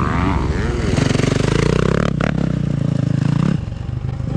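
Dirt bike engine running under throttle, easing off about three and a half seconds in.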